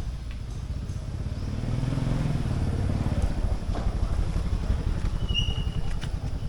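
Low engine rumble of a passing motor vehicle, swelling about two seconds in, with a brief high whistle near the end.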